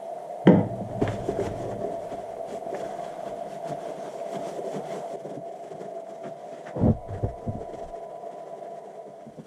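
A steady mechanical hum, interrupted by two heavy knocks, one about half a second in and one near seven seconds.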